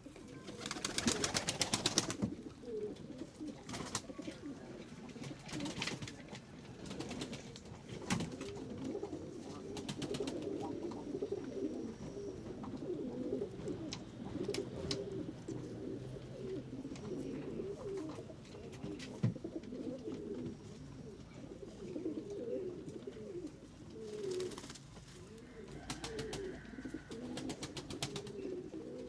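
A flock of pigeons cooing continuously, many birds overlapping. A loud flurry of wingbeats comes about a second in, with shorter flurries near the end.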